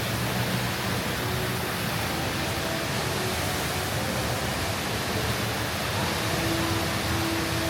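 Steady, even rush of falling water from the HSBC Rain Vortex, a very tall indoor waterfall pouring down through a glass dome.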